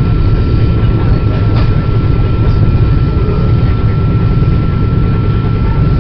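Amtrak passenger train heard from inside the car while running at speed: a loud, steady low rumble and rush, with a thin steady high whine running through it.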